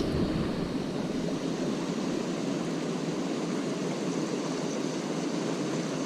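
Creek water rushing steadily, an even noise without pitch.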